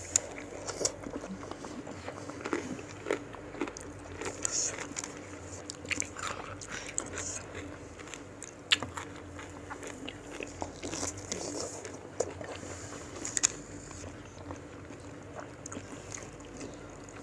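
Biting and chewing crisp raw fruit slices dipped in peanut-chili rujak sauce: irregular sharp crunches with chewing between them.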